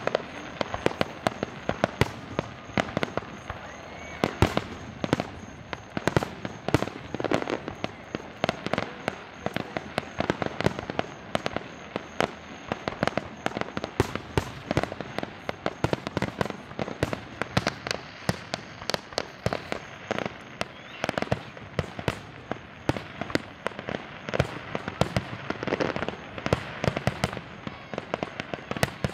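Aerial fireworks finale: shells bursting in rapid, overlapping succession, sharp bangs following one another several times a second without a pause.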